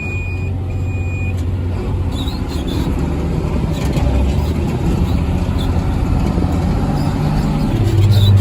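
New Holland tractor engine running steadily under load while pulling a disc chisel through sod, a low hum that gets louder near the end. Two short high beeps sound in the first second and a half.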